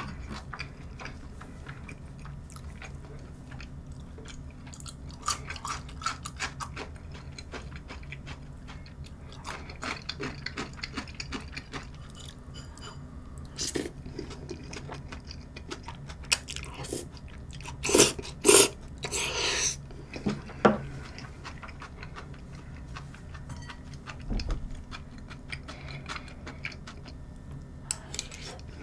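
A person chewing and eating creamy spaghetti from a fork, heard close up, with small cutlery clicks throughout. A few louder, noisy bursts come about two-thirds of the way in.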